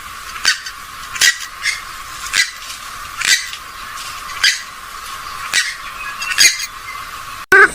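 A rail-family waterbird of the swamphen and moorhen kind giving short, sharp calls, about eight of them at uneven spacing. Just before the end the recording cuts abruptly to a louder, wavering call.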